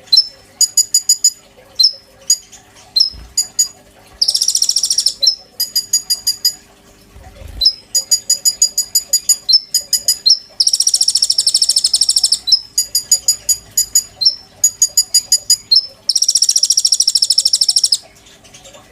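Konin bird singing: three loud, rapid, buzzy trills of a second or more, alternating with runs of sharp, evenly spaced chip notes, several a second.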